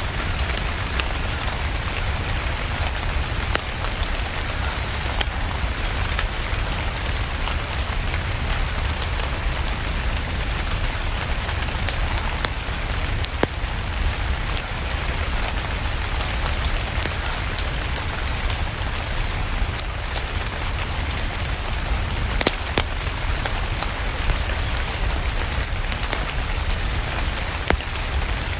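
Steady rain together with a crackling fireplace fire: an even hiss with a low rumble underneath and scattered sharp crackles.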